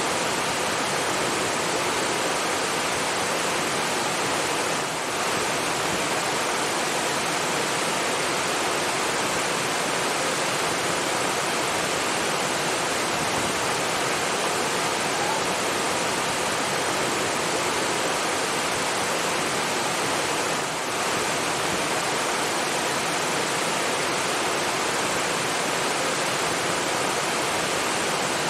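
Rushing water running steadily, a continuous even wash of sound.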